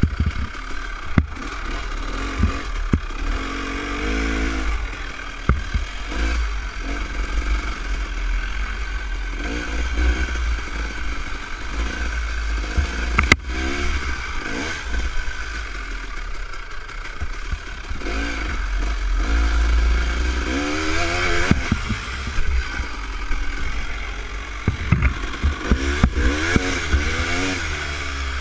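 Dirt bike engine revving up and easing off again and again while riding a trail, with clattering knocks from the bike over rough ground.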